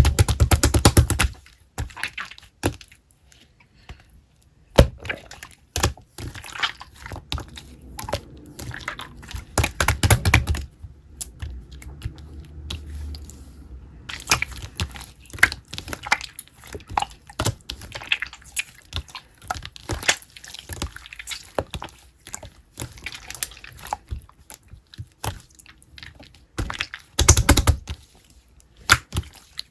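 Close-up handling of small objects: irregular clicks, taps and crinkly rustles, with a few louder, denser stretches of rustling.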